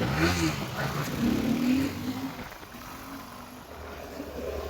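Motorcycle engine running, its revs rising and falling over the first couple of seconds, then settling lower and steadier.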